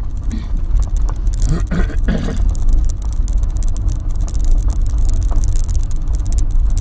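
Car driving along, a steady low engine and road rumble with tyre noise, and a brief higher sound about two seconds in.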